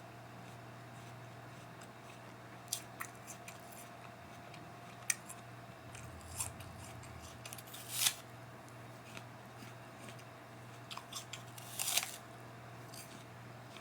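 Crisp apple being bitten and chewed: scattered sharp crunches, the loudest about eight and twelve seconds in, over a steady low hum.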